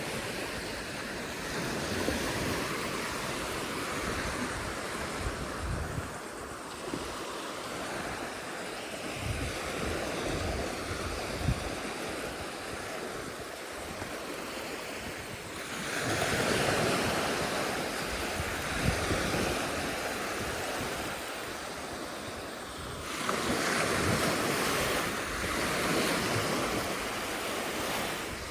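Ocean surf breaking and washing up a beach, with waves swelling louder about halfway through and again near the end. Wind buffets the microphone in low gusts.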